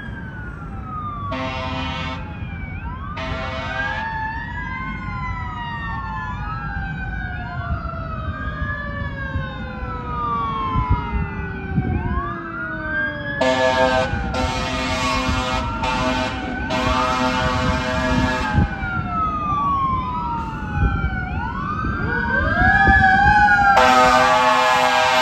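Fire trucks responding with several overlapping electronic wail sirens rising and falling, and a Federal Q2B mechanical siren winding slowly down in pitch. Air horn blasts cut in: two short blasts near the start, a run of blasts about halfway through, and a long blast near the end.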